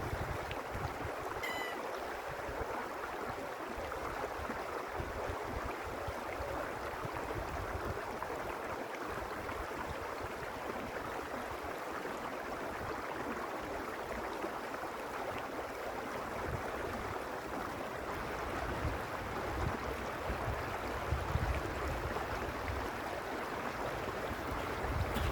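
A creek flowing steadily: a continuous rush of running water. Low wind rumble on the microphone comes and goes, and a brief high chirp sounds about a second and a half in.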